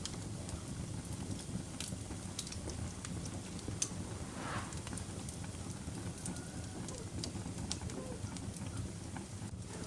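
Wood fire in a fireplace crackling: a steady low rumble of flames with scattered sharp pops and snaps every second or so.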